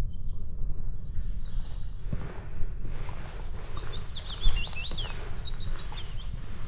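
A songbird singing a quick warbling phrase of high, rapidly rising and falling notes, starting about halfway through, with fainter chirps before it. Underneath runs a steady low wind rumble on the microphone, with soft footsteps on the path.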